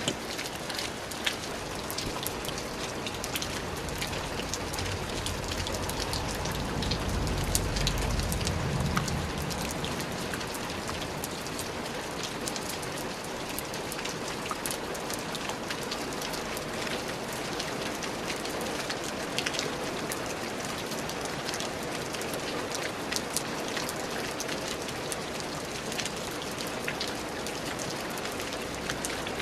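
Steady rain falling, with many separate drops ticking through the hiss. A low rumble swells and fades about six to nine seconds in.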